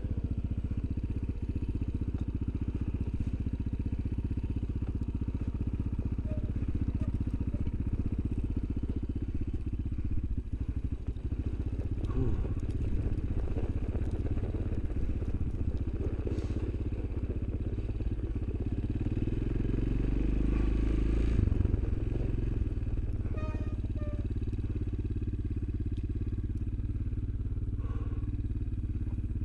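Engine of a small off-road vehicle running steadily with a low drone and some light clatter, rising slightly about two-thirds of the way in.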